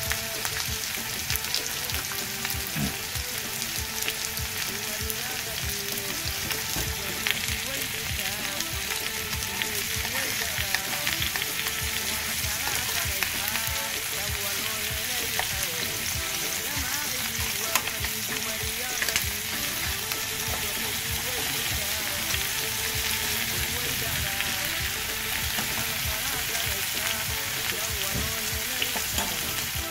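Chicken pieces sizzling and crackling in hot oil in a frying pan: a steady, dense spatter of fine pops.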